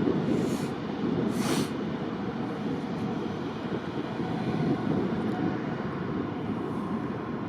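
Steady engine rumble with a faint constant whine, broken by two short hisses about half a second and a second and a half in.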